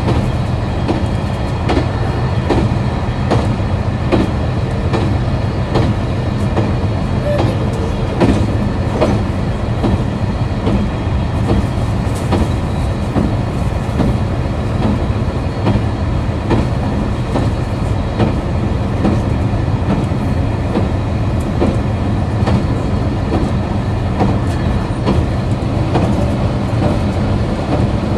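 Diesel engine of a KiHa 261 series diesel multiple unit running steadily with the train under way: a continuous low drone, with repeated clicks of the wheels over rail joints.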